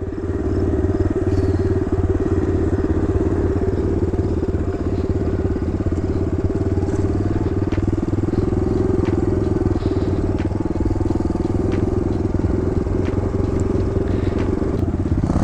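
Kawasaki KLX110 dirt bike's small single-cylinder four-stroke engine running steadily at an even, held speed.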